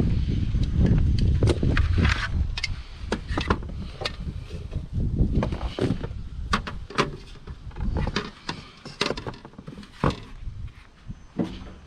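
Irregular knocks, clicks and clunks of hard objects being handled, with a low rumble in the first few seconds that fades out.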